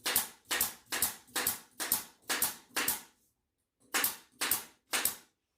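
Staple gun firing staples into the pool table's wooden rail edge to hold the stretched bed felt: a rapid run of sharp snaps about two a second, seven in a row, then a pause of about a second and three more.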